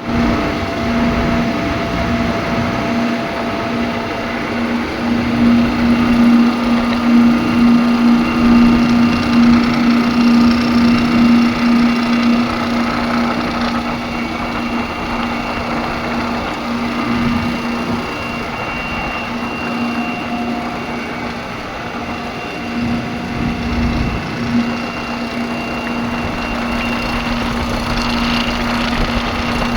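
Compressor running with a steady hum and a mechanical noise coming from it, a sign of a mechanical fault in the compressor. The hum throbs a little in loudness for several seconds early on, then settles.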